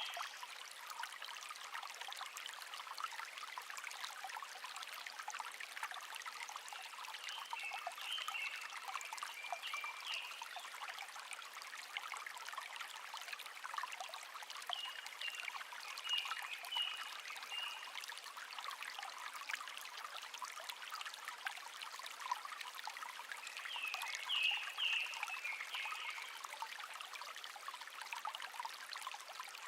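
Shallow stream (せせらぎ) trickling steadily over stones. Over it, a wild songbird sings short bursts of high chirps three times.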